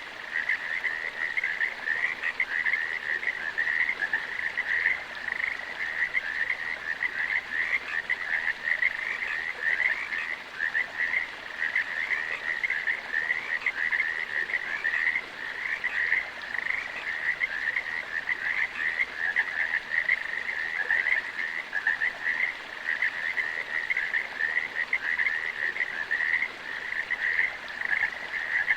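A chorus of many frogs calling together: a steady, dense run of rapid pulsing trills, all at about the same pitch.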